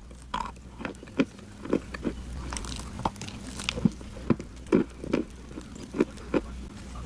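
A person biting and chewing crunchy clay: a run of sharp, irregular crunches, about two a second.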